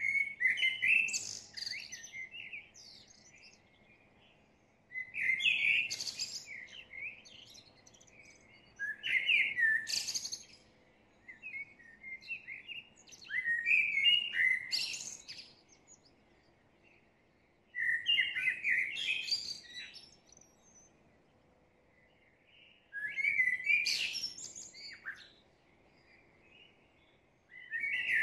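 A songbird singing in separate warbled phrases about two seconds long, high and twittering, with pauses of two to three seconds between them, about seven phrases in all.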